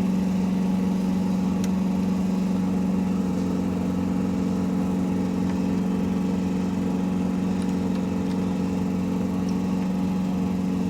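Steady machine hum at a constant pitch, with a few faint light clicks.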